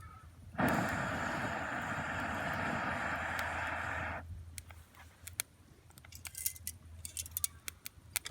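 A steady rushing noise for about three and a half seconds, then scattered sharp crackles and pops of a wood fire burning.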